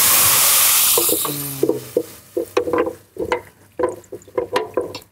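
Food added to hot oil in a pot, sizzling loudly at once and dying down over about two seconds, followed by a run of short knocks and scrapes.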